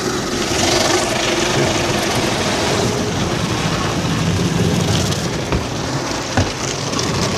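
Automatic car wash heard from inside the car: a steady, loud rush of water spray and machinery working over the car body, with two short knocks about a second apart near the end.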